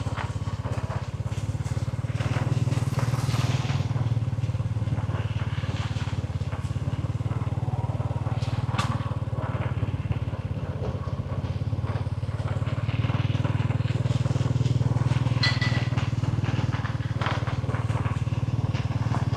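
A small engine running steadily at an even speed throughout, with a few faint short knocks and sounds on top.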